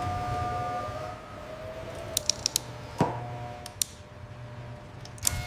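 Machinery whine with steady tones, joined about two seconds in by a few sharp metallic clicks and, at about three seconds, a single sharp clank.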